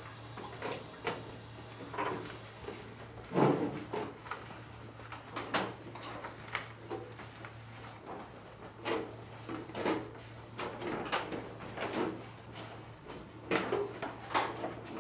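Short, irregular scraping and rubbing sounds, roughly one a second, from a calligraphy brush writing characters on paper, over a steady low hum.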